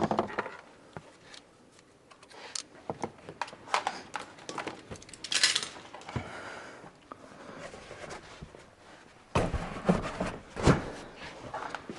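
Irregular clicks and knocks of hand work with tools and parts, with a brief rustle about five seconds in and a few heavier knocks in the last few seconds.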